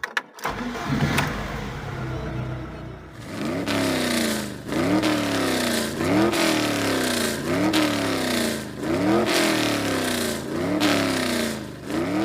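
VAZ (Lada) car engine running, then revved in quick blips about every second and a half, each one rising sharply and dropping back, about seven in all. It is a rattly, noisy engine.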